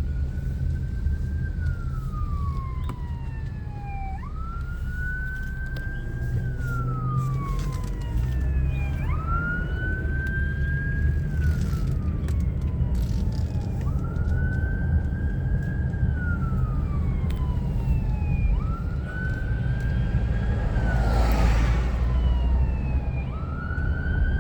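Emergency vehicle siren in slow wail mode: each cycle rises quickly, holds briefly at the top, then falls slowly, repeating about every four and a half seconds, over a steady low rumble. A short noisy burst joins in about three quarters of the way through.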